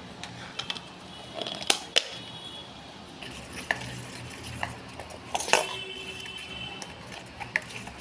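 A spoon clinking against a dish while batter is mixed: a few sharp clinks that ring briefly, about two seconds in and again about five and a half seconds in, with lighter taps between.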